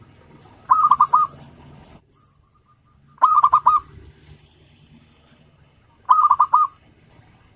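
Zebra dove (perkutut) cooing: three short phrases, each a quick run of staccato notes, about two and a half to three seconds apart.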